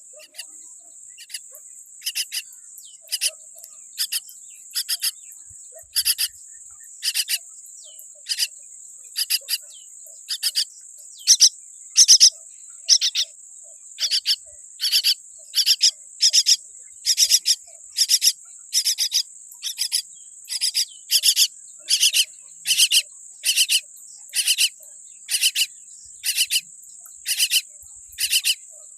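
Baby myna giving short, raspy calls over and over, often in pairs, coming faster after the first few seconds. A steady high-pitched drone runs underneath.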